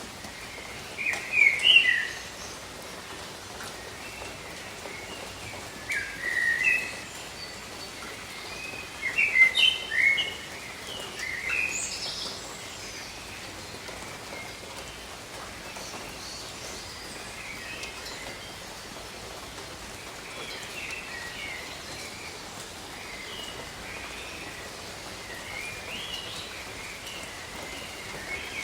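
Steady rain falling, with birds calling over it: a few loud bunches of short chirps in the first half, then fainter, scattered calls.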